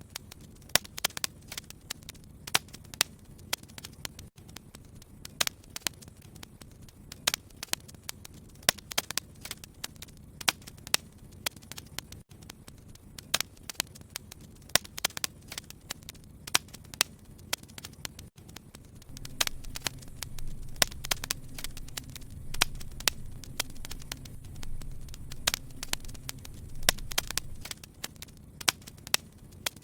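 Wood fire in a fireplace crackling, with irregular sharp pops several times a second over a soft hiss. A low rumble of the fire swells a little after halfway and falls away near the end.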